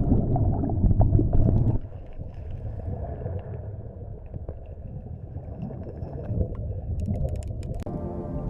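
Low rumbling noise, loudest for the first two seconds and then quieter, with scattered clicks and a quick run of sharp clicks near the end.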